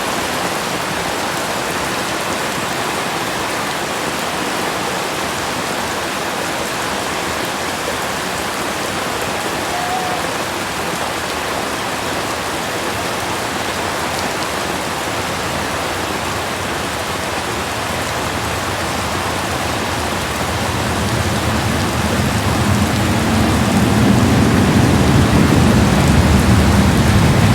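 Heavy rain falling steadily on a concrete road, an even hiss. About three-quarters of the way through, a low rumble builds underneath and the whole sound grows louder.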